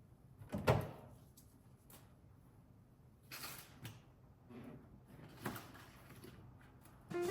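Household handling sounds in a kitchen: a sharp knock about a second in, like a door or drawer shutting, then a few softer knocks and brushing sounds.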